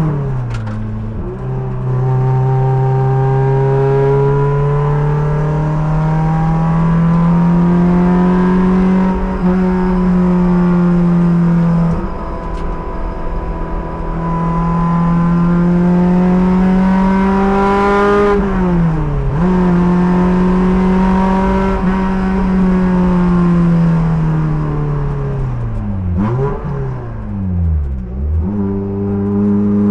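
Race car engine heard from the driver's helmet, pulling hard with its pitch climbing slowly through each gear. The pitch drops suddenly at upshifts about a second in and again about twelve seconds in. It swoops down and back up several times as the car brakes and downshifts, once around nineteen seconds and in a quick series near the end.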